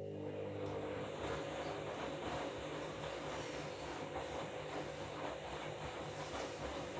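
Washing machine running steadily: an even motor hum over a rushing, sloshing water noise.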